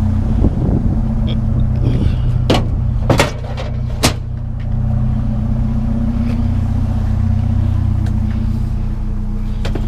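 Motor vehicle engine running at a steady idle, with three sharp knocks or clanks between about two and a half and four seconds in.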